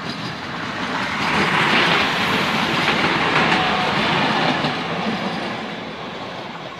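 Red multiple-unit passenger train passing close by on the rails, growing louder to a peak about two to four seconds in, then fading as it moves away, with wheel noise clacking over the track.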